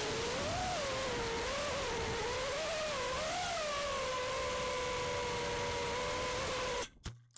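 FPV quadcopter's brushless motors and propellers whining, the pitch rising and falling with the throttle, then holding steady, over a rush of wind noise. The sound stops abruptly near the end.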